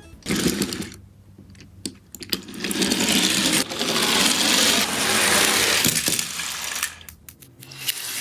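Toy garbage truck whirring and rattling as it runs, with small plastic clicks, loudest from a couple of seconds in until near the end.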